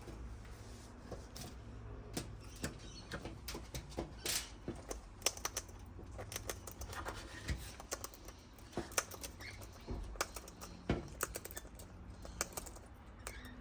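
Birds feeding: many irregular sharp taps and clicks of beaks pecking food off a hard surface, with a short rustle of wings about four seconds in.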